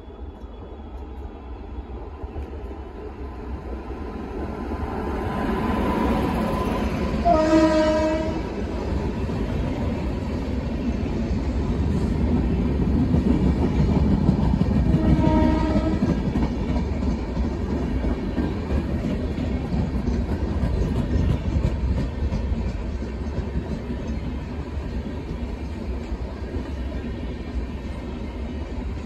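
Indian Railways electric locomotive hauling a passenger express, its rumble growing louder as it approaches, then two short horn blasts, about seven and fifteen seconds in. After that the coaches roll past with a steady wheel rumble and clatter over the rail joints.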